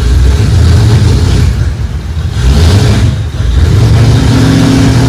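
A loud engine or motor runs steadily, its pitch rising about four seconds in.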